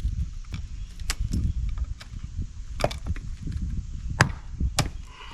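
Irregular knocks and clicks from hand work on the parts of a household appliance being taken apart, with a low rumble underneath.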